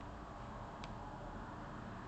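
Room tone: a steady low hum and hiss, with one faint click just under a second in.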